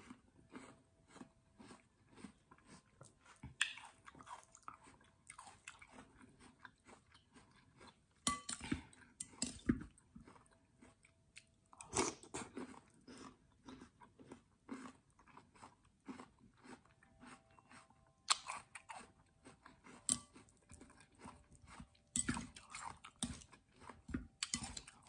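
Close-miked eating: crunching and chewing of water chestnuts in sweet syrup, heard as a steady patter of small wet mouth clicks, with louder bites in several clusters.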